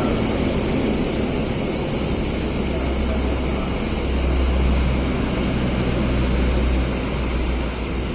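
Diesel-electric locomotive's engine running with a low, steady drone that swells about halfway through and eases near the end.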